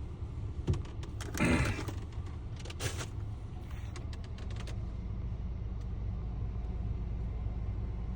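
Truck's diesel engine idling as a steady low hum, with a few short clicks and a brief rustle about a second and a half in.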